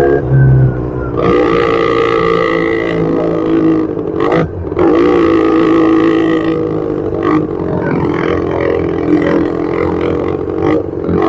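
Yamaha R25's 250 cc parallel-twin engine running under way at fairly steady revs, with a brief break in its note about four and a half seconds in.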